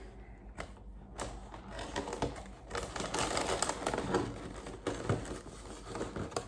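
Rustling and a scatter of light clicks and taps from Gundam model kits and their packaging being handled.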